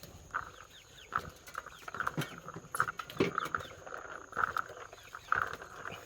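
Chickens feeding: short sharp pecking knocks and repeated soft clucks from the hens.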